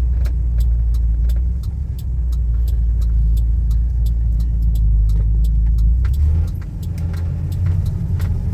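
Engine and road drone of a 1993 Toyota pickup being driven, heard from inside the cab: a steady low rumble. About six seconds in it dips briefly and returns at a higher pitch. A fast, even light ticking runs over it.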